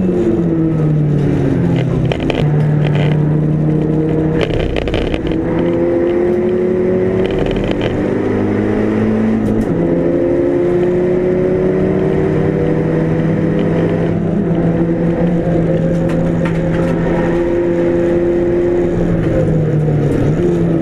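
Race car engine of a Mk5 Golf GTi at speed, its note climbing slowly in two long pulls. The pitch drops briefly about ten seconds in and again near the end.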